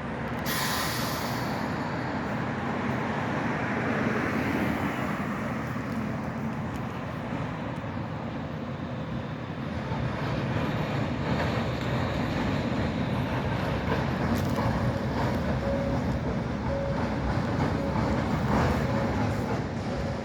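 Zagreb city tram running along the street, a steady noise of wheels on rails with street traffic, growing louder about halfway through.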